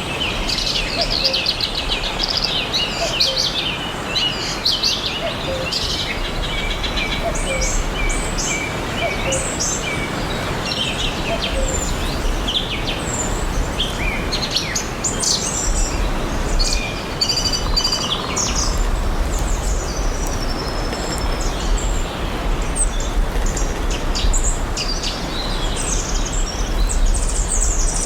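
Several songbirds chirping and trilling over a steady background hiss of forest ambience.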